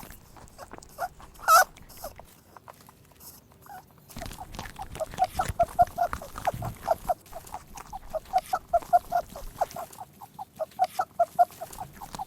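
Rabbit making a series of short, rapid grunts: a few scattered ones at first, then a quick run of about five a second from about four seconds in.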